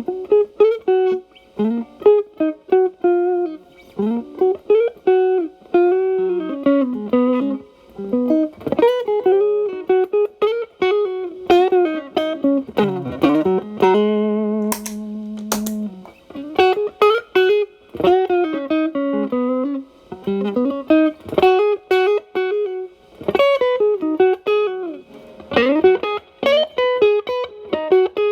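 Electric guitar, a Fender Telecaster through an Xotic BB overdrive pedal into a Marshall Valvestate's clean channel, playing bluesy single-note lead lines with string bends. With the guitar's volume rolled back to clean up the overdrive, the tone is only lightly driven. About halfway through, one note is held with vibrato for about two seconds.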